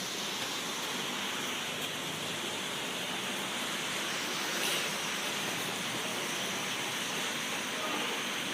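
Rain falling steadily during a thunderstorm, an even hiss with no thunder.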